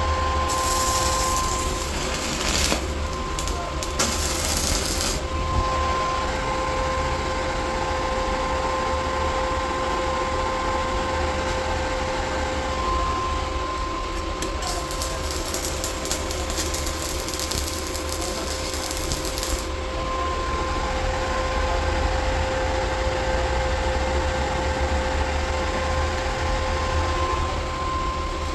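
Steady machine hum with a constant whining tone, overlaid at times by bursts of hiss lasting one to five seconds.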